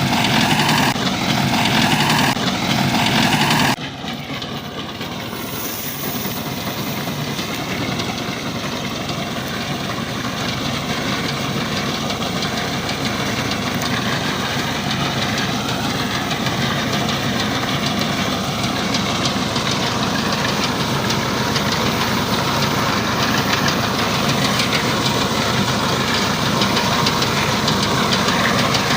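Tractor engine running steadily with a wheat reaper. The sound drops abruptly and changes character about four seconds in, then the engine's pitch wavers slightly as it slowly grows louder.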